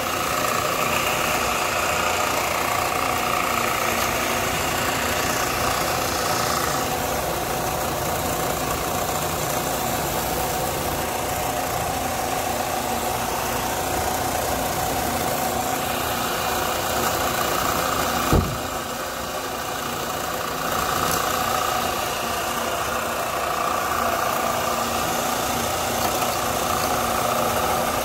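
A motor-driven machine running steadily, with one sharp knock about eighteen seconds in.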